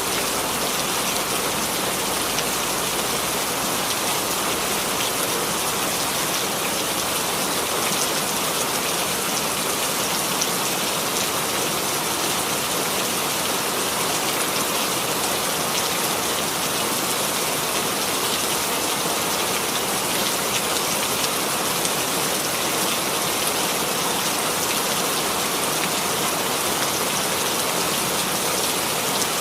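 Steady rainfall sound effect: an even hiss of rain with fine drop patter.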